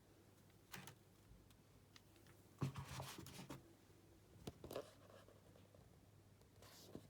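Near silence with a low steady hum, broken by a few faint clicks and rubbing sounds of something being handled: one about a second in, a cluster around three seconds in, another just before five seconds, and one near the end.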